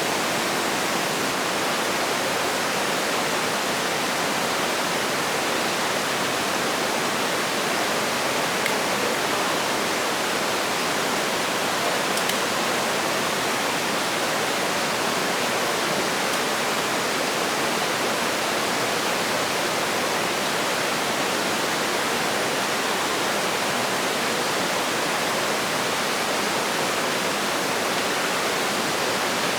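Steady, even rushing noise that does not change or break, with no separate events in it.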